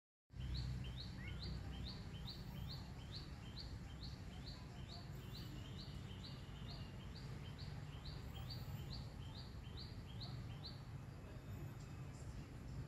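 A small bird calling a rapid, evenly repeated high chirp, about three a second, that stops about eleven seconds in, over a steady low background rumble.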